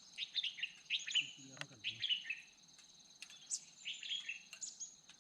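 Small birds chirping in quick, short calls, over the steady high trilling of crickets.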